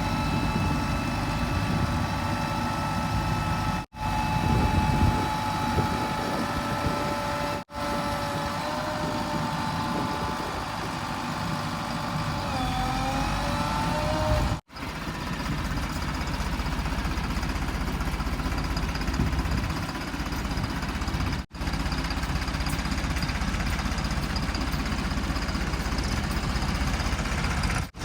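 Heavy vehicle diesel engines running, in several short stretches separated by abrupt breaks in the sound. A high whine wavers in pitch for a few seconds in the middle.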